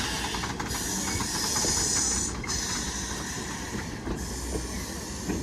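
Steam locomotive hissing steam with a low rumble underneath. The hiss dips briefly about every second and a half.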